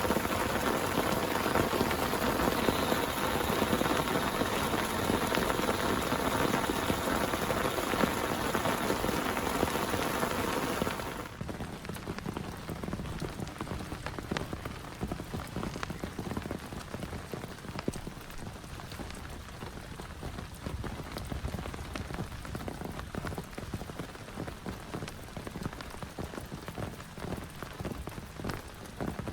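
Heavy rain falling in a dense, steady hiss. About eleven seconds in, it cuts abruptly to a quieter patter of separate drops.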